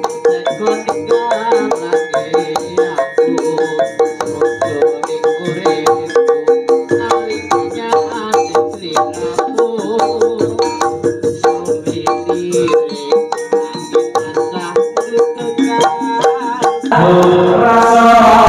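Javanese gamelan ensemble playing: bronze metallophones and gongs ring in a busy interlocking pattern, with the kendang hand drum beating along. The music swells into a louder, denser passage near the end.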